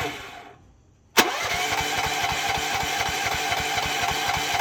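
Rippa Mule Trac mini excavator's small engine being cranked without the choke and failing to start. One attempt dies away in the first second. Then, after a click, the starter cranks steadily for about three and a half seconds with an even pulsing beat, but the engine does not catch.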